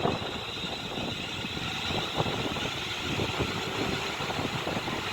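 London Northwestern Railway Class 350 electric multiple unit pulling out of the station and gathering speed past the platform: a rumble from the train with many quick, irregular clacks of wheels on the track.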